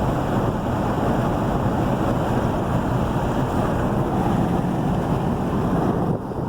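Steady road and tyre noise with wind noise from a moving vehicle, easing slightly about six seconds in.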